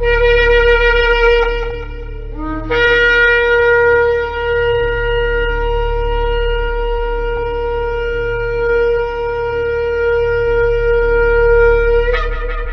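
Shofar blowing long blasts. A held note breaks off about a second and a half in, a short lower note follows, then one long steady note lasts about nine seconds and leaps up in pitch near the end.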